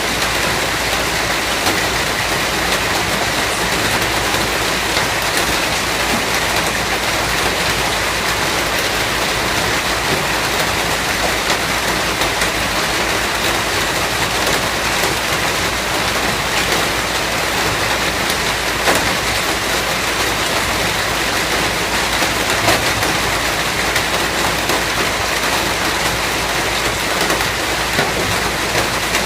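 Steady rain falling: a dense, even hiss of raindrops, with a few louder single drops ticking out of it now and then.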